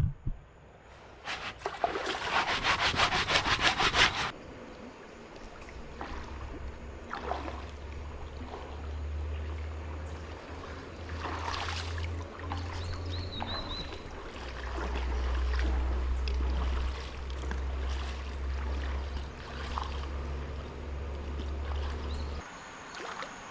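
Wet clothes being scrubbed by hand against a smooth river rock: a fast, rasping rub for about three seconds near the start, then quieter scattered rubbing and water sounds over a low rumble.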